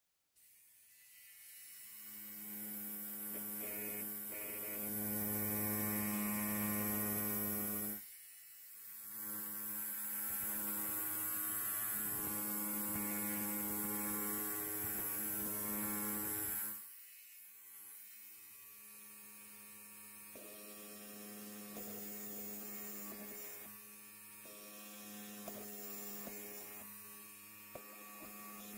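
Electric hair clipper buzzing steadily in three runs, dropping out briefly about 8 and 17 seconds in.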